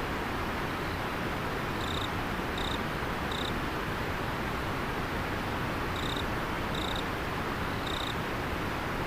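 River water flowing steadily, with a cricket-like insect calling in short high chirps over it: three a little under a second apart about two seconds in, and three more about six seconds in.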